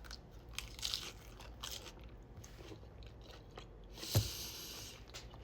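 Close-up eating sounds: a person biting and chewing a taco, with a series of short crunches and a sharper, louder crunch about four seconds in.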